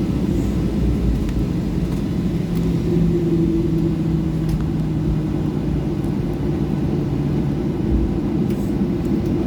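Boeing 737-800 cabin noise: the CFM56-7B engines run at low power under a steady low rumble before takeoff. A steady hum rises a little above the rumble for a few seconds in the middle.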